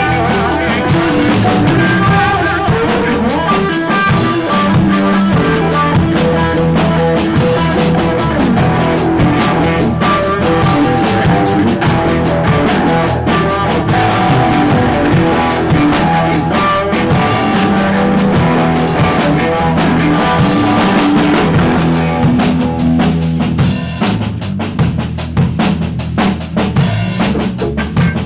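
A live band playing a blues-rock jam: guitar and bass notes over a drum kit with bass drum and rimshots. About 23 seconds in, the held notes drop away and the drums carry on more sparsely.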